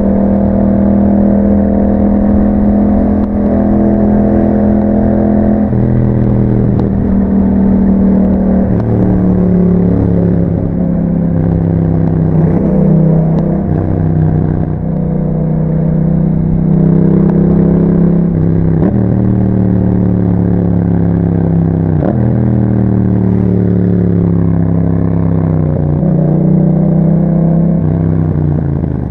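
2021 Yamaha MT-07's 689 cc parallel-twin engine running through an Akrapovic exhaust while riding, the note rising and falling as the rider works through the gears, with several gear changes.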